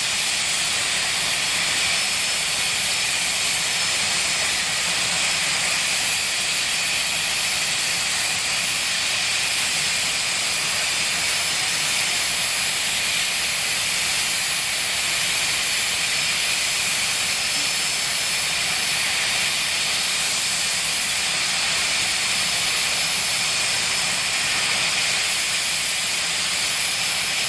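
Jet engine of a jet-powered drag-racing vehicle running steadily, a loud hiss with a high thin whine that holds unchanged throughout.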